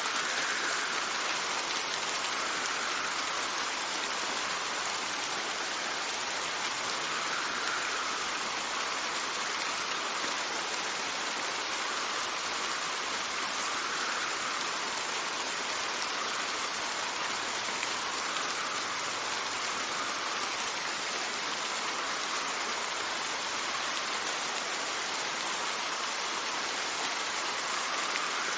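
Steady rain with wind, an even hiss that swells and eases gently every few seconds.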